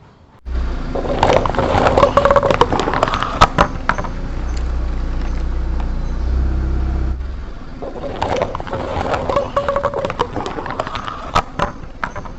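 Car tyre rolling over plastic Cricket disposable lighters: crunching and sharp cracks of breaking plastic over the low rumble of the car. After a sudden change about seven seconds in, a second bout of crunching and cracks.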